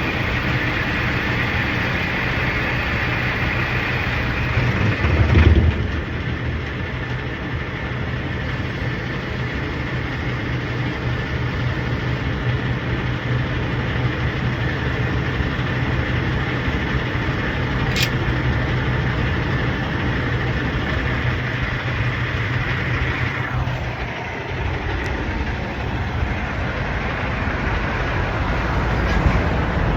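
Steady vehicle noise with a low engine hum, swelling briefly about five seconds in and easing off a little later on.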